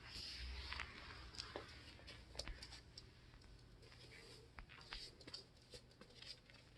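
Faint rustling with scattered light clicks and taps, near silence overall; the rustle is strongest in the first second.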